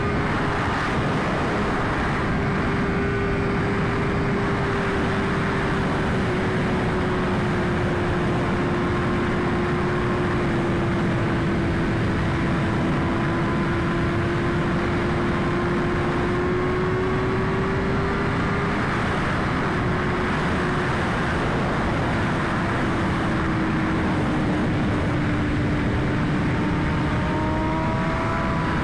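2021 BMW S1000RR's inline-four engine running at fairly steady revs while riding at speed, under heavy wind rush at the helmet-mounted mic. The engine note eases slightly and picks up again near the end.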